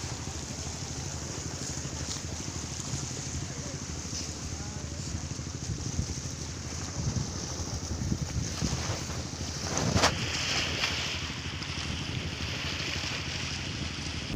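Strong wind on the microphone over choppy sea waves, a steady rushing noise, with a louder rush about ten seconds in.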